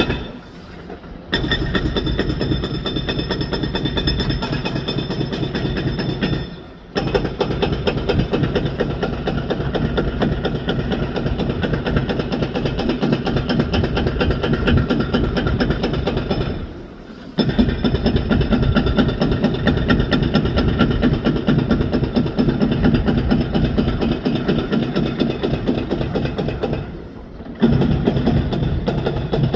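Heavy demolition machinery working, with a steady fast clattering and rattling, broken off abruptly three times by short gaps.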